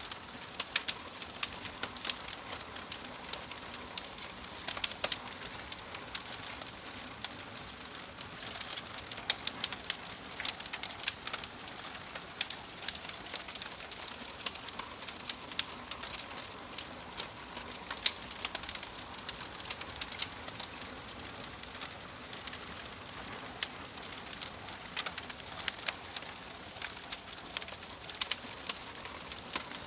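Wood fire in a fireplace crackling, with frequent sharp pops and snaps over a steady soft hiss.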